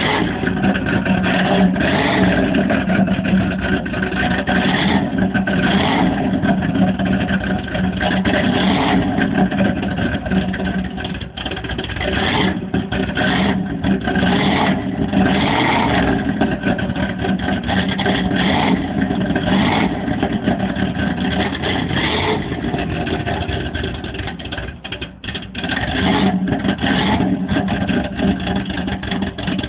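355 V8 engine running after a cold start, revved in short throttle blips every second or two over a steady idle, with a brief dip in level near the end.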